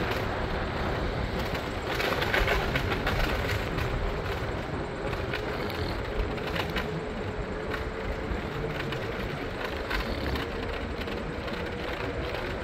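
Steady rumble and rail noise of a moving PATH train, with a faint held whine and a few scattered clicks.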